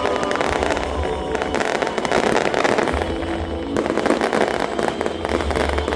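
Fireworks and firecrackers going off in a dense, continuous crackle of rapid pops, with music faintly underneath.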